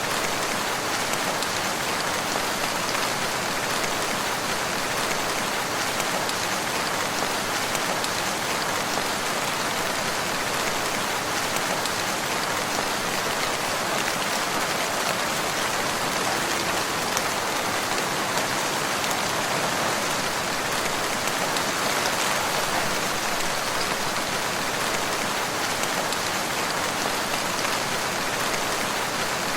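Steady rain falling on a surface, an even hiss of countless drops with faint individual patters, unchanging throughout.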